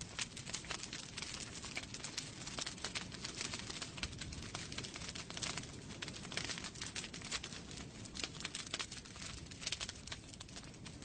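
Wood fire burning in a fireplace, crackling steadily with many small irregular pops and snaps over a low hiss of the flames.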